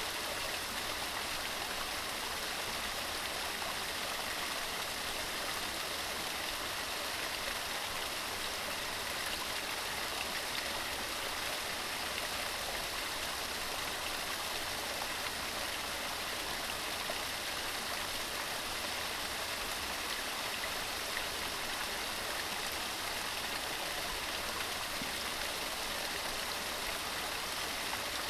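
Mountain stream rushing steadily over rocks, an even, constant wash of water.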